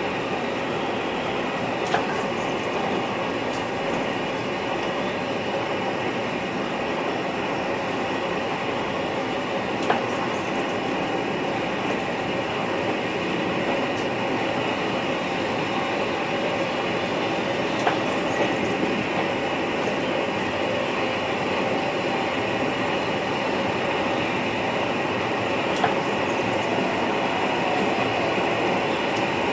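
Cab noise of an NS VIRM double-deck electric train under way: a steady rumble and hiss of running on the rails, with a sharp click about every eight seconds.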